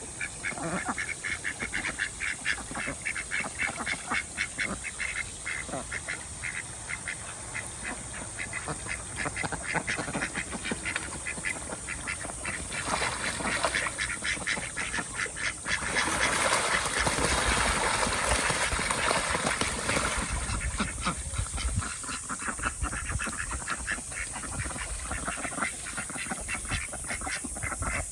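A group of domestic ducks quacking in quick, chattering runs of short calls. A louder stretch of rushing noise comes in about halfway through and lasts several seconds.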